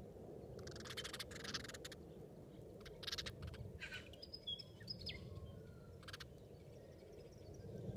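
A few short, thin, high bird chirps about halfway through, over a steady outdoor rumble of wind noise, with a few brief scratchy rustles.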